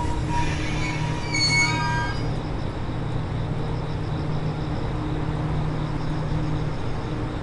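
Cassiopeia sleeper-train coaches rolling slowly past the platform with a steady low rumble. In the first two seconds there are a few brief high-pitched wheel squeals.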